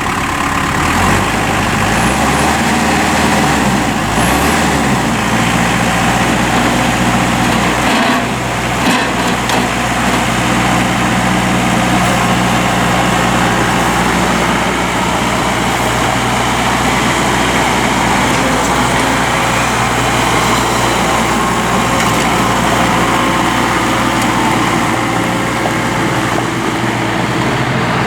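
Case IH Farmall 40C compact tractor's diesel engine running. Its speed rises and falls over the first few seconds, then holds steady.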